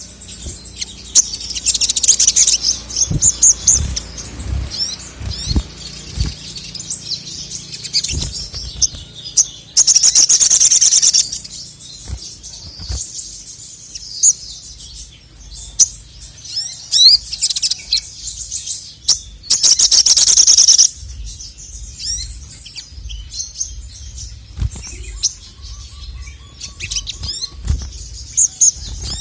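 Male sogon (sogok ontong) singing at full song: rapid high chirps and trills, with two loud, rapid bursts of song lasting about a second each, one about ten seconds in and one about twenty seconds in. Faint low thumps are scattered through it.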